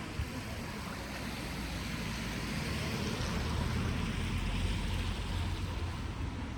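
Steady hiss of falling rain, with a low rumble that swells through the middle and eases near the end.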